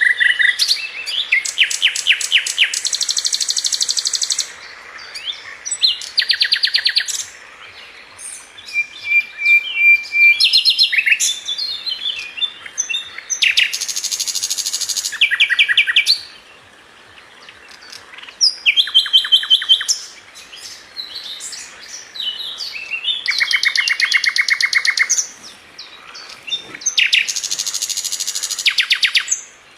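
A sikatan London flycatcher singing: a run of loud, separate phrases, each a fast trill or buzzy rattle lasting a second or two, with short pauses and a few thin whistled notes between them.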